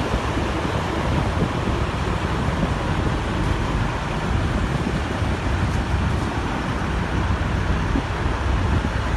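Steady low rumble of a car's engine and tyres while driving slowly.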